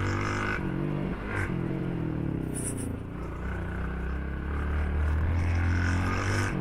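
Motorcycle engine running under way, its pitch dipping and rising about a second in, then holding steady.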